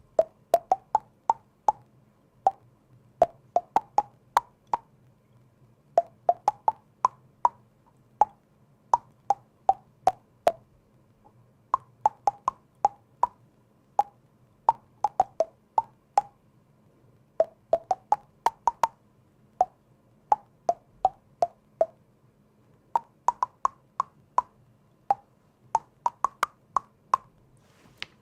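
Close-up mouth pops and tongue clicks: dozens of short, hollow plops in quick clusters of three to six, with brief pauses between clusters.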